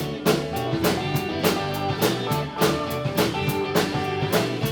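Live rock band playing the instrumental intro of a song: drum kit keeping a steady beat under electric guitar and other pitched instruments, no vocals yet.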